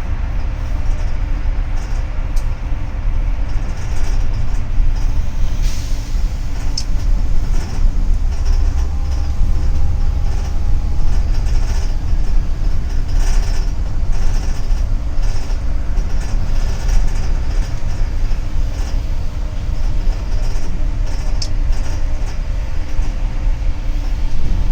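Interior noise of a double-decker city bus in motion: a steady low engine and road rumble with scattered rattles and clicks.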